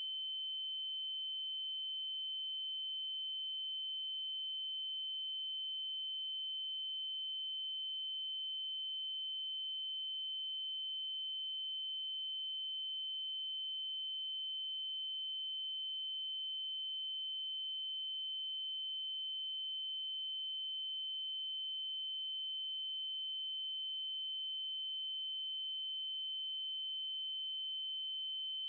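Synthesized 3072 Hz triangle-wave tone, held steady at one high pitch without change.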